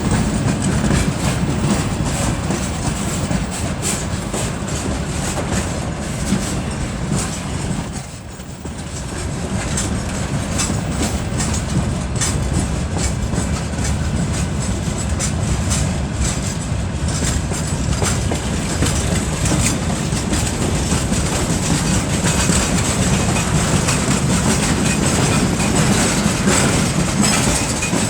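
Freight train hauled by a 2TE10UT diesel locomotive moving slowly uphill: a steady, loud rumble with wheels clattering over the rail joints. The sound dips briefly about eight seconds in.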